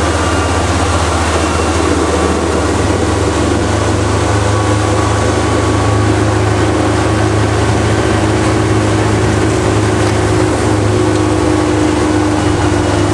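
A 60 hp outboard motor running steadily under way, with a constant rushing hiss alongside.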